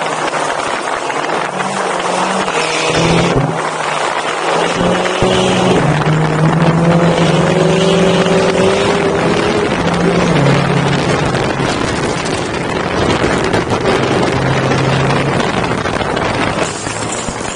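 Car engine running hard with its note stepping up and down as cars drift on lake ice on ice tyres, over a loud steady rush of wind and tyre noise.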